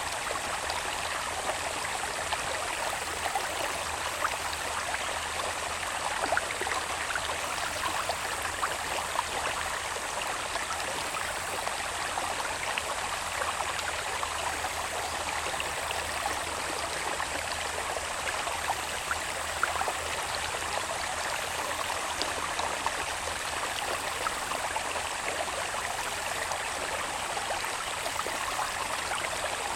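Small stream of water in a channel running off the hillside, flowing steadily with fine trickling and splashing. A faint, steady, high-pitched insect drone sounds over it throughout.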